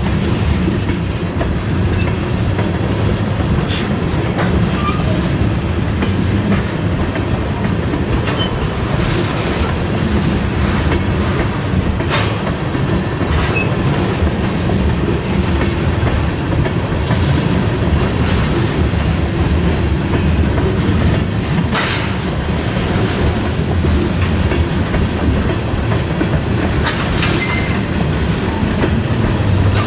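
Freight cars rolling slowly along the track, a steady rumble with wheels clicking over rail joints and now and then a brief squeal.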